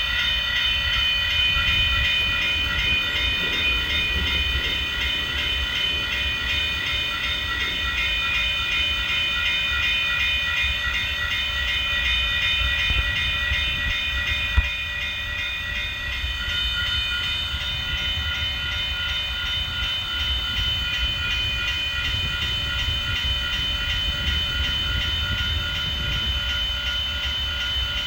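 Train running past on the track: a steady low rumble with sustained high-pitched ringing tones over it. There is a single sharp knock about halfway through.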